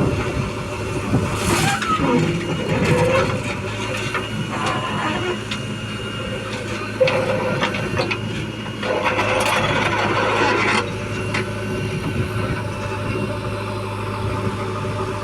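Heavy diesel engine of an earth-moving job running steadily, with clanking throughout and a louder rushing, clattering stretch of about two seconds a little past the middle.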